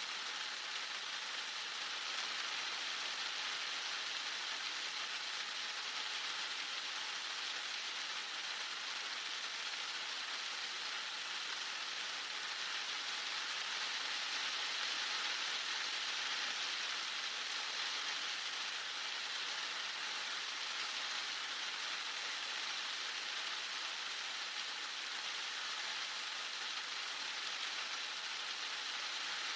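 Heavy rain falling hard and steady, an even hiss with no thunder or separate drops standing out.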